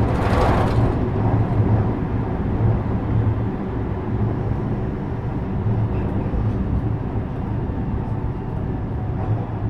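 JR West 321 series electric multiple unit running along the line: a steady rumble of traction motors and wheels on rail with a low hum. A brief hiss sounds in the first second.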